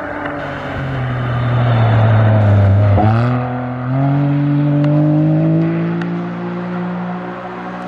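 Rally-raid competition vehicle's engine under hard acceleration, getting louder over the first few seconds, dipping sharply in pitch about three seconds in, then climbing steadily in pitch as it pulls on.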